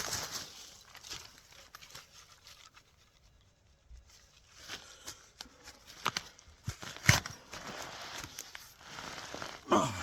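Rustling and crunching in leaf litter and soil at a metal-detecting dig spot, with a few sharp knocks, about a second apart, in the second half.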